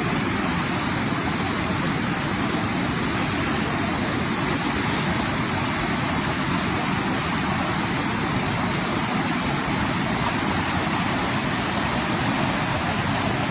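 Steady rush of falling water from a waterfall cascade, an even, unbroken noise that keeps the same level throughout.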